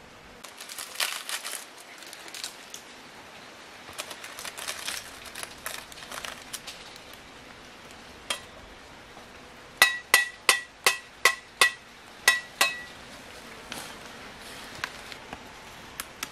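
Some rustling and crackling, then a quick run of about eight sharp clinks, each with a short ringing tone, like hard objects such as glass or metal being struck together.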